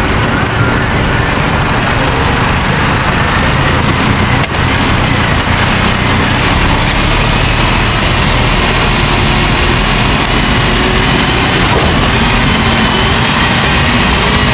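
Steady rumble and road noise of a vehicle in motion, loud and unbroken.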